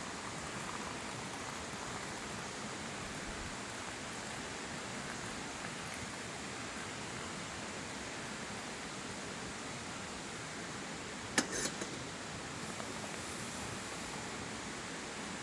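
Steady even hiss with a single sharp crack about eleven seconds in, followed by a few smaller ticks.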